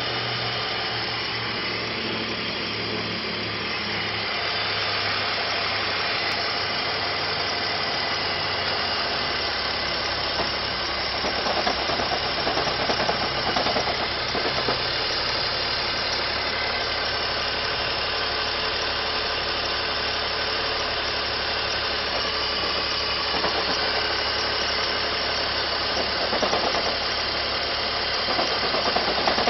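BMW E46 330Ci's straight-six engine idling, with an uneven, rough fluttering that swells twice: partway through and near the end. It is the engine noise that comes with the oil filler cap taken off.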